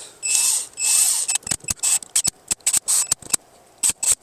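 Ratchet wrench running the camshaft bearing cap bolts down lightly. There are two short rasping spins near the start, then a string of sharp ratchet clicks in quick strokes.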